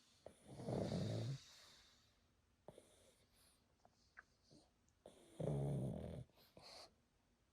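Sleeping pug snoring: two loud snores about five seconds apart, one a second in and one near the end, with faint snuffles and small clicks between them.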